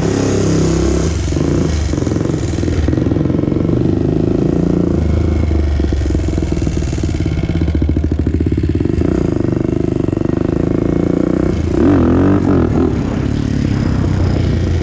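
Honda TRX400EX ATV's single-cylinder four-stroke engine running steadily, with a brief rise and fall in revs about twelve seconds in.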